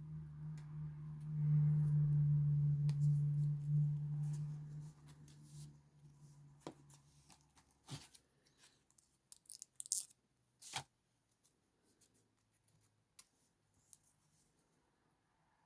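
Paper being torn and handled on a craft desk: a steady low buzzing tear for the first several seconds, then scattered light taps and clicks.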